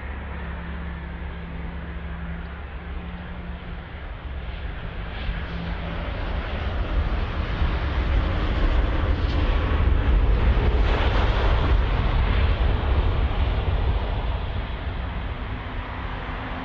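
Airplane engines running: a steady low rumble that swells louder partway through and eases off near the end.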